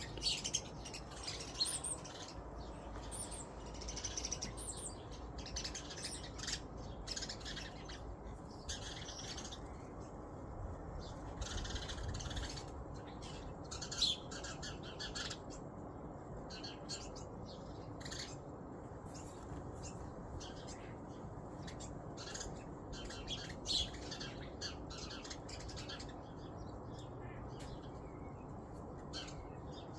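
Birds chirping and calling outdoors in cold weather: many short, scattered high calls, a few of them louder, over a steady low background rumble.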